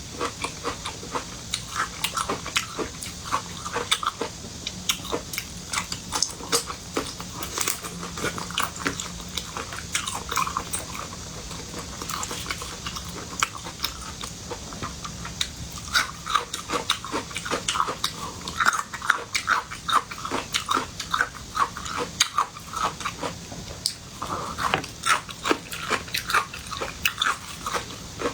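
A person eating seafood close to the microphone: biting and chewing, a dense, irregular run of wet smacks and crunchy clicks.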